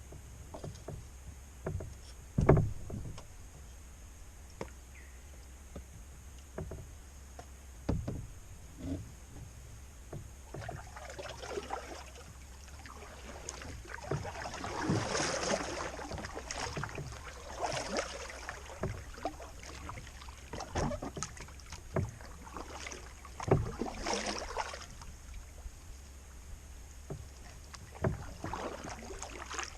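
A kayak being paddled: water splashing off the paddle blades in uneven strokes, with occasional sharp knocks.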